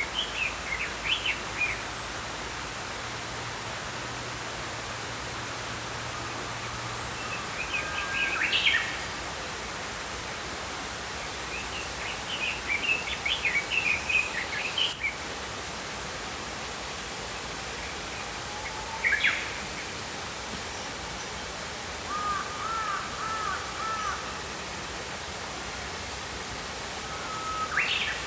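Small songbirds chirping and whistling in short bouts, about six spread through, over the steady rush of a small flowing stream.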